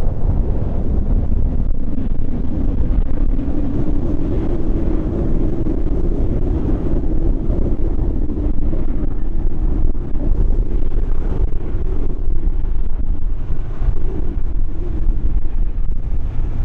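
Heavy wind buffeting the microphone, with the jet engine noise of a landing Airbus A320-214 and its CFM56 turbofans growing from about three seconds in and holding as the aircraft passes.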